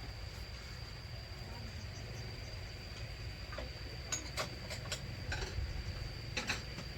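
Light clicks and knocks of dishes and utensils being handled, scattered through the second half, over a steady low hum with a faint high-pitched whine.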